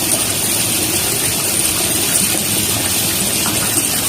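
Steady rushing water noise, as of an aquarium or water under the surface, standing in for the sound of fish.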